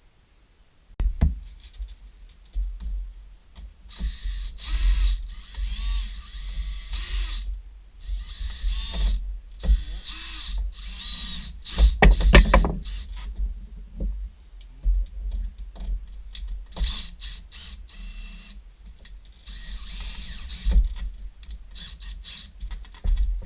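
Power drill running in several bursts of one to three seconds, with knocks and handling noise in between; a loud cluster of knocks comes about halfway through.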